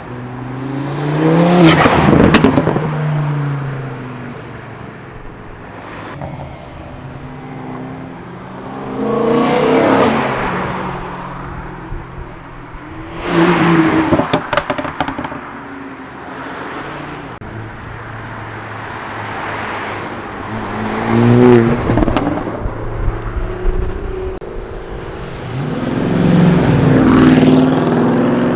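Modified cars accelerating hard past one after another, about five pass-bys, each engine note rising as it nears and falling away.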